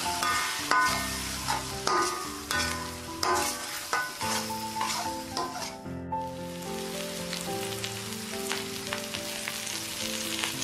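Eggs sizzling and frying in a metal wok while a metal spatula stirs and scrapes them, with sharp scraping strokes mostly in the first half. An instrumental music track plays underneath.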